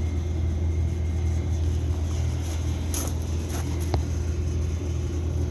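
Steady low mechanical hum of outdoor air-conditioning equipment running, with a couple of light taps partway through.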